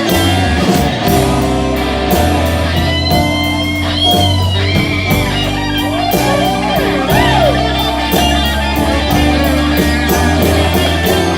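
Live band playing slow electric blues: electric guitar lead with bent notes over bass and drums.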